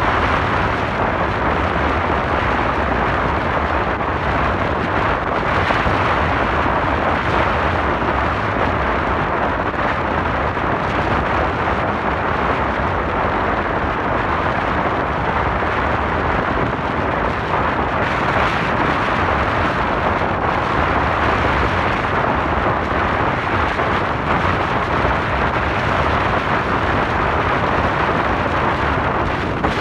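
Steady rush of wind and road noise heard from a microphone on a moving motorcycle, with no distinct engine note standing out.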